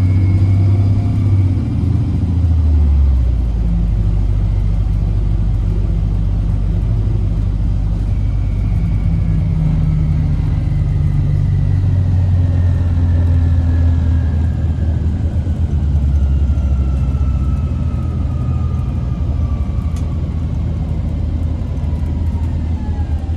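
Orion VII NG hybrid bus running, with a steady low rumble of diesel engine and road noise. From about a third of the way in, the BAE HybriDrive electric drive's whine falls slowly in pitch, as it does when the bus slows down.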